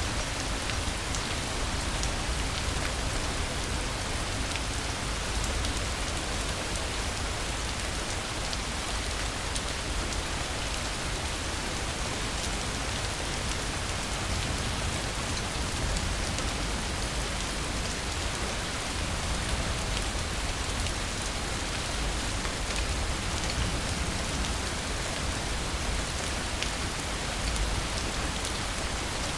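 Steady rain falling: an even, unbroken hiss with scattered drops ticking.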